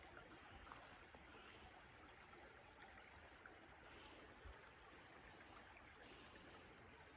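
Near silence: the faint, steady flow of a small creek.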